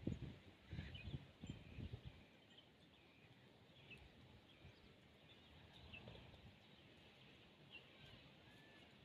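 Faint, scattered chirps of small birds, with a few soft low thumps in the first two seconds.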